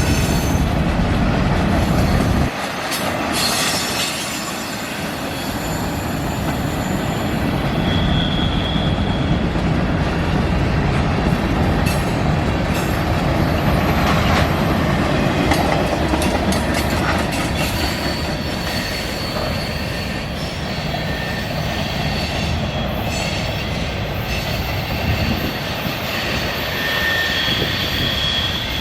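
Freight cars of a manifest train rolling past, their wheels clattering steadily over the rails. Brief high-pitched wheel squeals come a few times, around a third of the way in and near the end.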